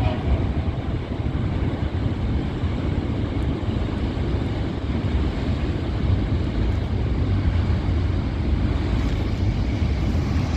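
Norfolk Southern freight train rolling past, a steady low rumble with wind on the microphone.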